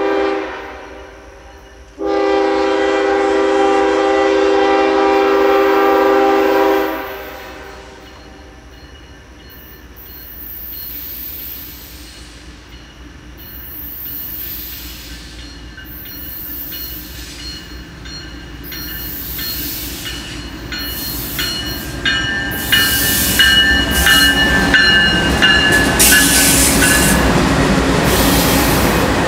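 Norfolk Southern freight train led by a GE ES40DC diesel locomotive sounding its horn: a short blast, then a long blast of about five seconds. The rumble of the train then builds as the locomotives approach and pass close by, with wheels clicking over the rails and some high ringing tones near the end.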